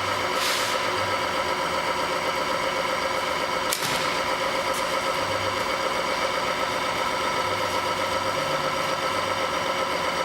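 Motor-driven lubricant friction-test machine, a bearing race turning against a weighted SKF roller, running with a steady whine under doubled load without seizing. A couple of brief clicks come near the start and about four seconds in.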